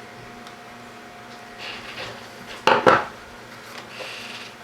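Small hard parts and tools being handled on a workbench: light rustling, then a short clatter of hard objects about three seconds in.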